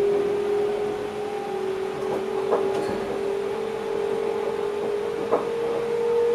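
Electric passenger train heard from inside the driver's cab, its traction drive whining on one steady note that rises slowly in pitch as the train gathers speed. A few short knocks from the wheels on the track come through over it.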